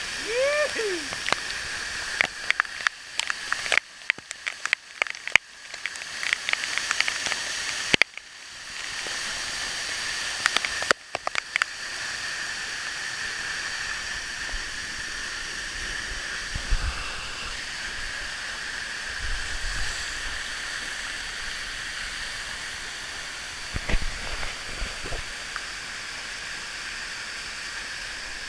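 Steady hissing rush of a large waterfall in full rainy-season flow. During the first twelve seconds it is broken by many clicks and brief dropouts, and a short falling call sounds near the start.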